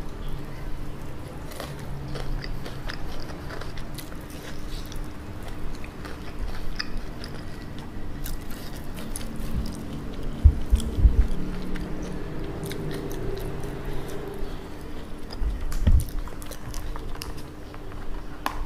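Chewing and biting into sauce-glazed fried chicken: a run of crisp, crackly crunching clicks, with a few dull low thumps about ten and sixteen seconds in.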